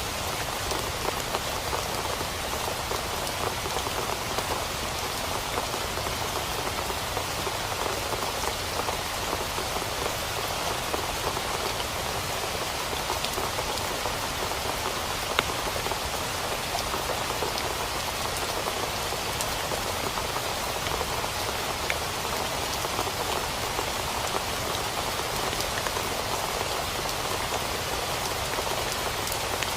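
Steady rain drumming on a tent, with many small drop ticks and one sharper hit about halfway through.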